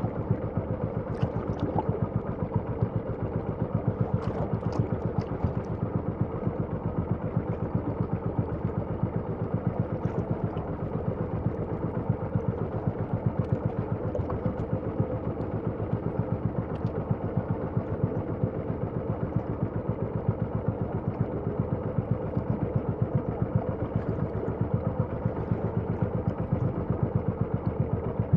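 Small fishing boat's engine running steadily at a constant speed, with a fast, even beat.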